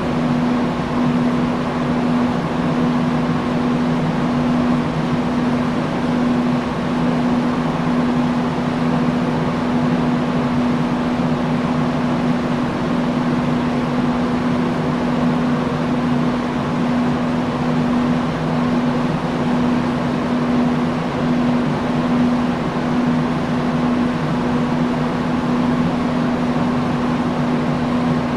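Industrial fan running steadily: an even rush of air with a constant low hum.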